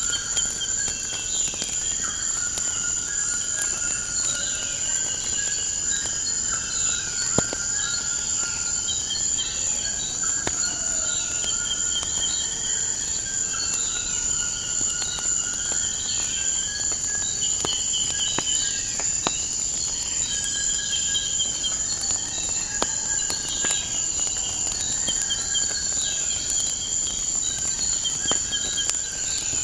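Crickets trilling in a steady high drone, with birds chirping repeatedly over it and scattered sharp crackles from a wood fire.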